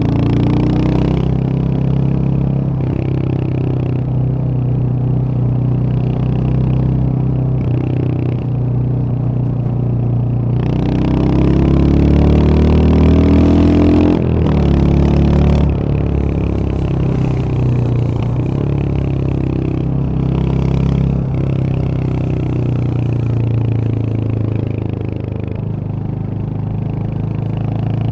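Royal Enfield Hunter 350's single-cylinder engine and exhaust on the move. The pitch climbs steadily as it accelerates from about 11 seconds in, drops suddenly about three seconds later, then settles back to a steady cruise.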